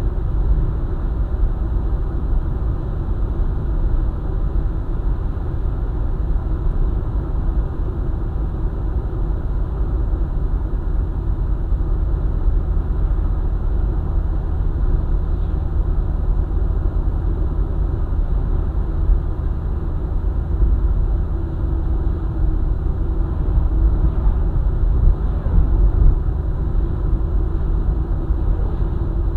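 A vehicle driving along a highway: steady, low rumble of tyre and engine road noise.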